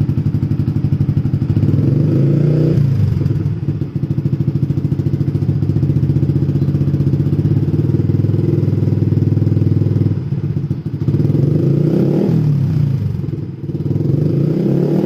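Yamaha MX King's single-cylinder four-stroke engine running through an aftermarket Scorpion exhaust, idling steadily with short throttle blips about two seconds in, around twelve seconds in, and again near the end.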